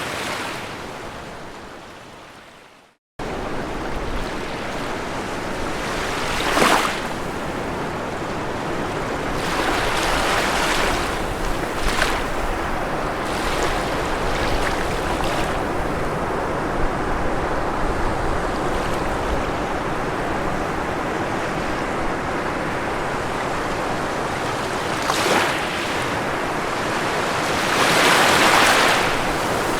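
Ocean surf washing on a shore as a steady rush of water noise, with a few louder breaking waves swelling and falling away. About three seconds in, the sound fades out to silence and then cuts back in abruptly.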